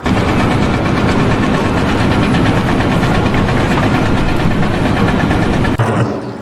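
An engine running steadily. It cuts off about six seconds in.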